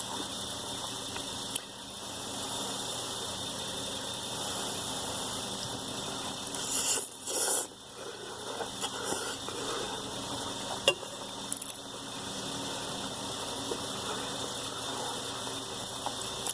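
Eating sounds from a bowl of ramen: a few sharp clicks, like chopsticks or a spoon against the bowl, and two short noisy bursts about seven seconds in, over a steady background hiss.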